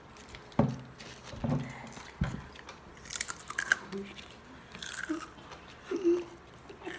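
Ruffles ridged potato chips bitten and chewed close to the microphone: three sharp crunching bites in the first couple of seconds, then bursts of crackly chewing.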